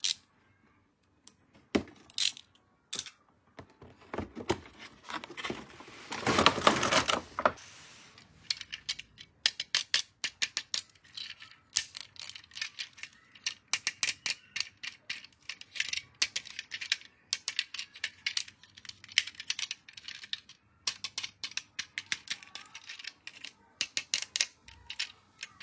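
Toy packaging being handled and opened: a loud burst of plastic crinkling about six seconds in, then many quick, irregular clicks and taps of hard plastic.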